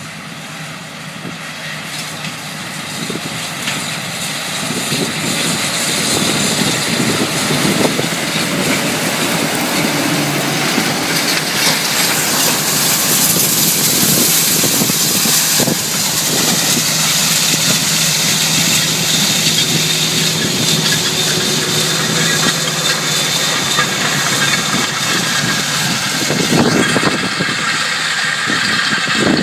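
Tractor engine running while drilling seed. It grows louder over the first several seconds, then holds steady under a broad rushing hiss.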